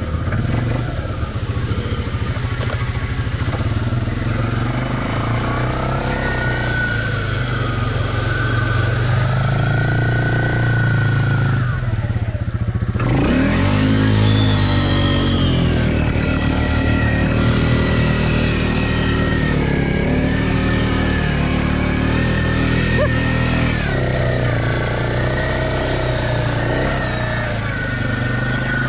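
Off-road vehicle engine running hard through mud, its pitch rising and falling as the throttle is worked. About twelve seconds in it drops off briefly, then revs back up.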